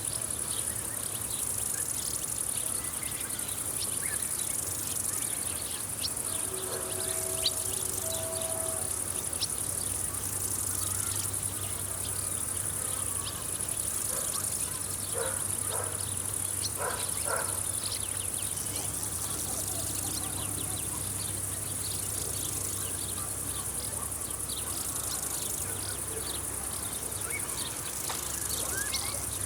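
Field insects stridulating: a steady high-pitched shrill, thick with short ticks and chirps, with a few faint brief calls from another animal in the middle.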